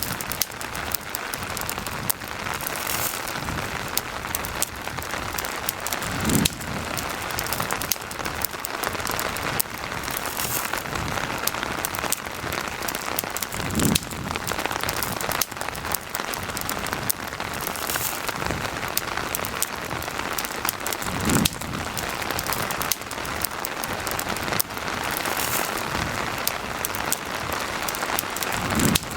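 Steady rain falling, mixed with the sharp snaps and crackles of a wood campfire, and a soft low thump about every seven to eight seconds.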